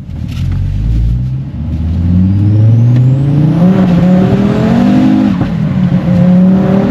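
Stage 3 big-turbo Mk2 Ford Focus RS's turbocharged 2.5-litre five-cylinder engine accelerating hard, its pitch rising steadily through the revs. The pitch dips briefly a little after five seconds in, as with a gear change, then climbs again.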